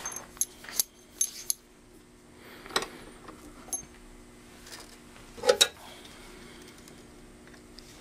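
Clinks and knocks of a metal coax connector and tools being handled and clamped in a bench vise. There is a quick run of light clicks at first, a few single knocks, and a louder double clank about five and a half seconds in.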